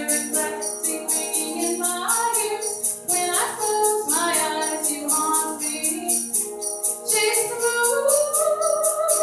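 Live sitar song with singing: sung lines gliding between notes over a steady droning accompaniment, with a regular high jingling beat. A long held note starts about eight seconds in.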